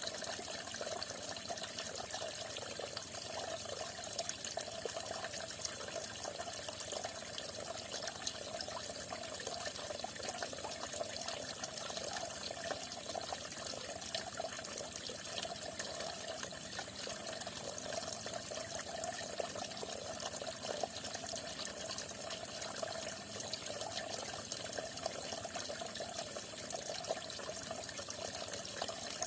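Falling water trickling and splashing steadily.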